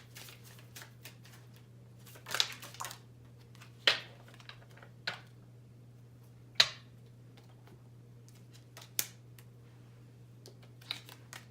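Tarot cards being handled and laid down on a table: a scattering of short snaps and taps, the sharpest about four and six and a half seconds in. A steady low hum runs underneath.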